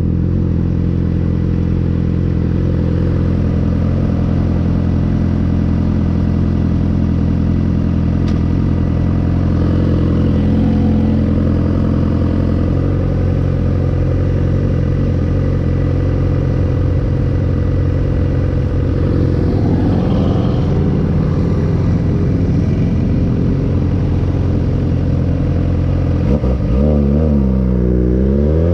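2009 Suzuki GSX-R 600's inline-four with an M4 aftermarket exhaust holding a steady, even note, then revving up with a quickly rising pitch near the end as the bike pulls away.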